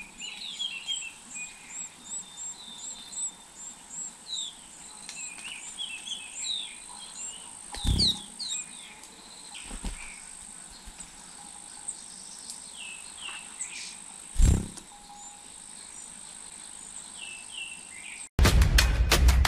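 Small birds chirping at the nest: a run of thin, high chirps about two a second for the first several seconds, with scattered lower calls, over a steady high insect whine. Two loud knocks come about 8 and 14.5 seconds in. Music starts abruptly near the end.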